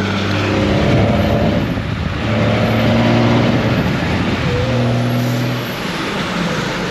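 Car engine revving in three surges, each held at a steady pitch for about a second, as the car struggles for traction with wheel hop on a wet road.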